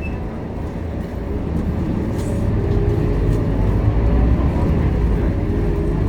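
Scania K230UB city bus's diesel engine running, growing louder over the first few seconds as the bus accelerates, then holding steady.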